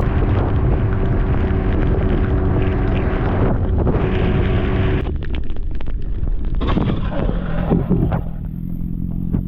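2018 BMW S1000RR's inline-four engine running, the sound changing abruptly about five seconds in.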